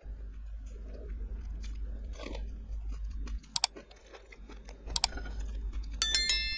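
A person chewing and biting food close to the microphone: wet mouth sounds with small crunches and clicks, and two sharper clicks in the middle. Near the end comes a brief ringing clink, the loudest sound.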